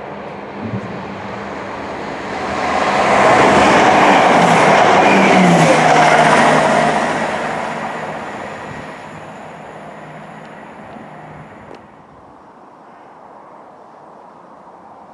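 Class 170 Turbostar diesel multiple unit passing: its engine hum and running noise swell to a loud peak a few seconds in, with a brief falling pitch as it goes by, then fade as it draws away. Near the end the sound drops suddenly to a quieter, steady level.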